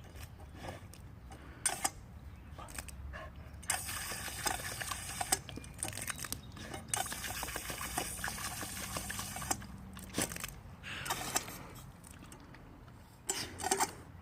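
Water spraying and splashing from a pedal-operated dog water fountain, in stretches of steady hiss lasting several seconds, with scattered clicks and knocks.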